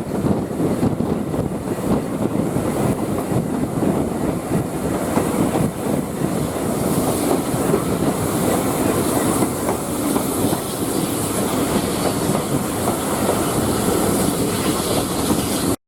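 Train running along the line, its wheels clattering steadily over the rail joints. The sound cuts off abruptly just before the end.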